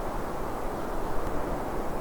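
Wind and waves on Lake Mashu: a steady, even rushing noise with a low rumble underneath and no distinct events.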